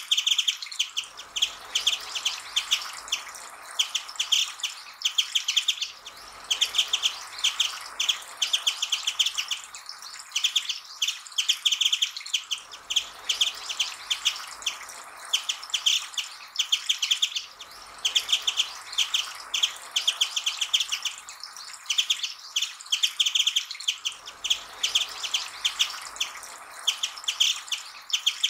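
Japanese white-eye singing: fast, high twittering phrases, one after another with short gaps.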